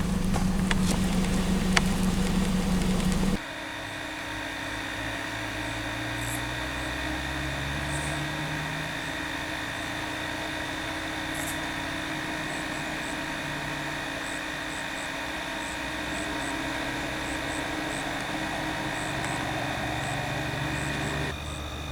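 Outdoor ambience: a steady chorus of high, even tones with small sharp chirps above it, over a faint low engine-like hum. About three seconds in, a louder low hum with a few clicks cuts off suddenly.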